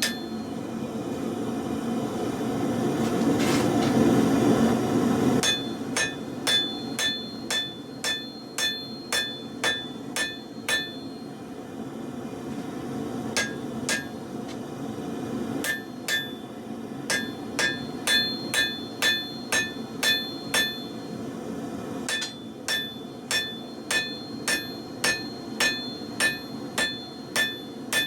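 Hammer blows on hot truck leaf-spring steel at an anvil, about two a second in runs with short pauses, each strike ringing with a clear metallic tone. For the first five seconds there are no blows, only a rushing noise that swells and then stops suddenly.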